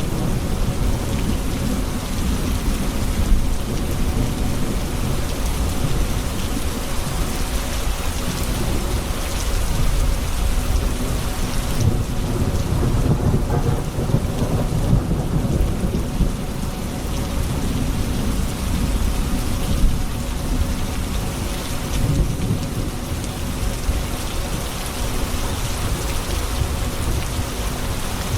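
Steady heavy rain with thunder rumbling low and continuously beneath it. A couple of short louder peaks come about three seconds and twenty seconds in.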